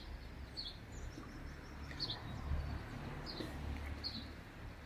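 Small birds chirping: short, high chirps about once a second, over a low rumble.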